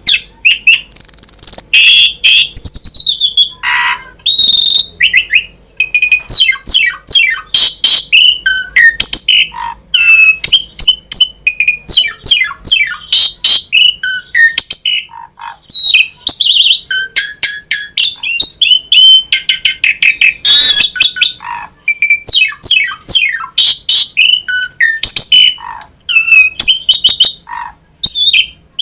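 Asian pied starling (jalak suren) in full, varied song: a rapid, continuous stream of sweeping whistles, chattering notes and sharp clicks with only brief pauses.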